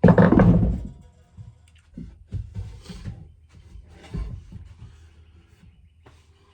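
A heavy hammer blow rings for most of a second, then a few lighter knocks and clanks follow.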